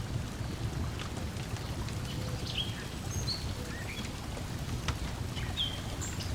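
Wood fire crackling with scattered small pops over a steady low wash of lake water lapping, with a few short bird chirps in the middle and near the end.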